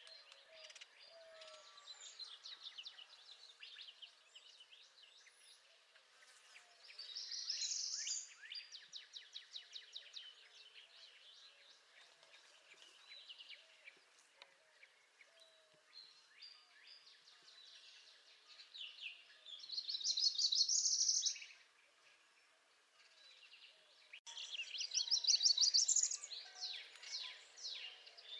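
Northern parula singing: three loud, high, fast trills, about 7, 19 and 24 seconds in, over fainter calls and songs of other birds.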